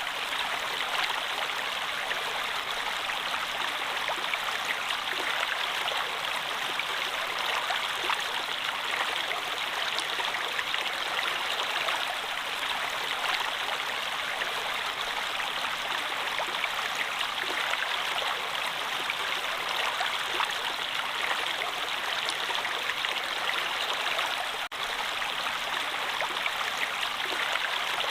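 A stream's water running steadily. There is a brief dropout about 25 seconds in.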